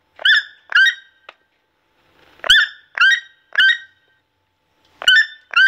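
Toucan calling: a series of short calls, each rising then falling in pitch, in groups of two or three about half a second apart.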